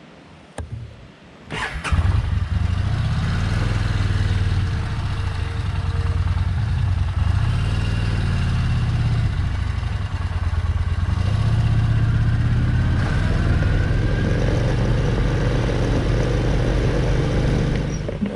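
Motorcycle engine started about a second and a half in, then running steadily with a few brief rises and falls in revs.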